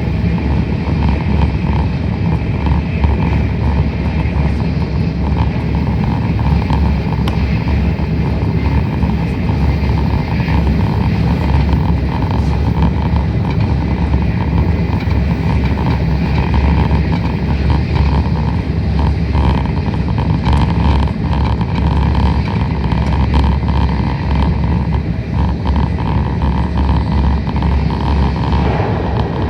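Tokaido Shinkansen train running, heard inside the passenger car: a steady low rumble with an even hiss of running noise.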